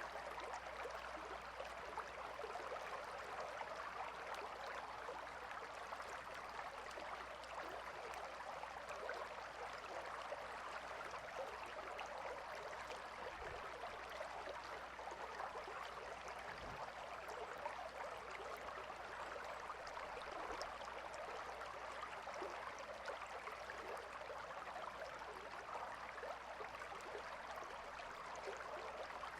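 A river flowing steadily: an even rush of water with a fine babbling crackle, unchanging throughout.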